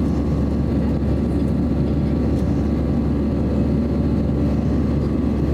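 Steady low drone inside the cabin of an Airbus A320-214 in flight: its two CFM56-5B engines and the rush of air past the fuselage.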